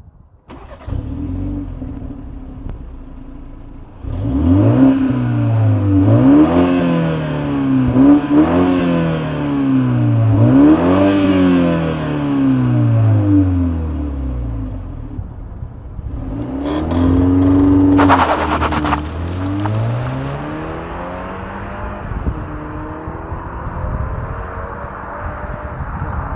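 A BMW 318i's 2.0-litre four-cylinder turbo petrol engine, running steadily, then revved up and down again and again, its pitch rising and falling about every two seconds, before settling back to a steadier run.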